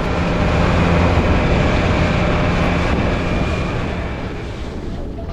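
Fishing boat's engine running steadily under way, with a low hum over a rush of wind and water noise that eases off somewhat over the last couple of seconds.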